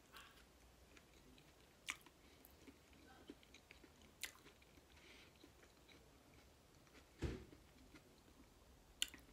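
Faint mouth sounds of a person chewing and swallowing the last of a butter-sauced boiled potato, with a few small clicks. A dull thump about seven seconds in is the loudest sound.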